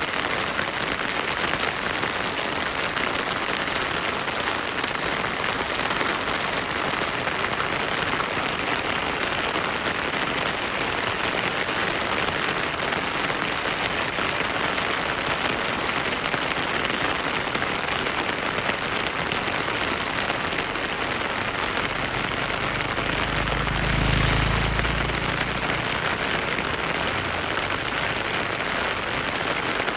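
Heavy rain falling steadily: a dense, even hiss of countless drops. Near the end comes a brief low rumble lasting a few seconds.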